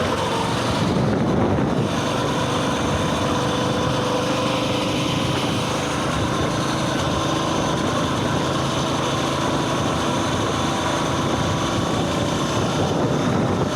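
Coleman mini bike's small single-cylinder four-stroke engine running steadily at a fairly constant pitch.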